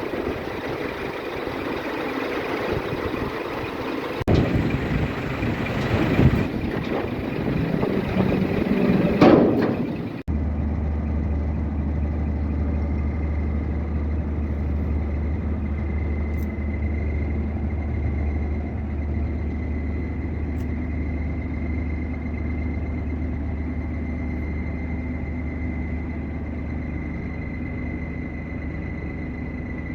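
Scania R 420 6x6 truck's diesel engine running. For the first ten seconds or so it is rough and noisy with a few swells, then, after an abrupt change, it settles into a steady idle with a low hum and a faint steady whine above it.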